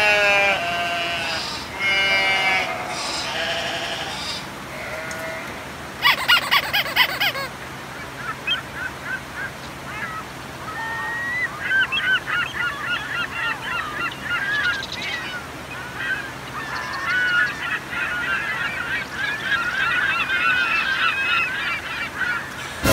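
Animal calls: a few pitched calls at first, a loud run of calls about six seconds in, then a long stretch of many short, wavering chirps.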